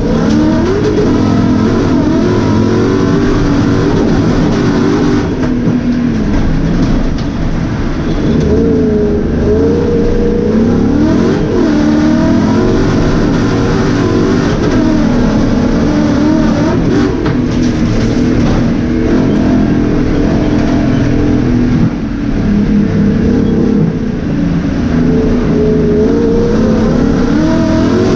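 Race car engine heard from inside the cabin at full race pace, revving up and dropping back over and over as the driver shifts gears and lifts for corners.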